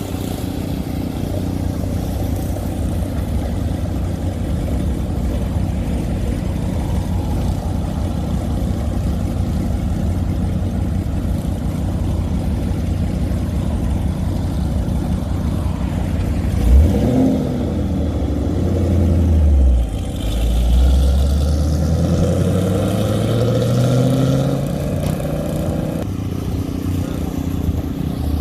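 Car engines idling with a steady rumble. About 17 seconds in, one engine is revved sharply, its pitch drops, and then it accelerates away with a rising whine that climbs for several seconds before levelling off.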